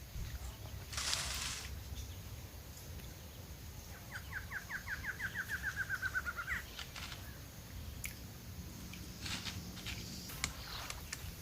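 A wild bird sings a single trill of about seventeen quick notes that speed up and slide slightly down in pitch, ending on a higher upturned note. A brief rustling hiss comes about a second in, and scattered small clicks near the end.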